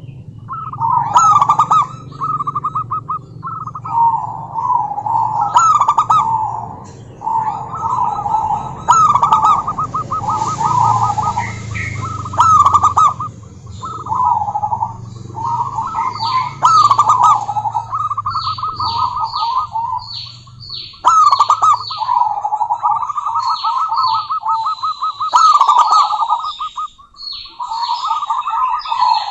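Zebra dove (perkutut), a female, calling: short trilled, rattling coo phrases repeated over and over. Higher, thin descending chirps from other birds join in about halfway through.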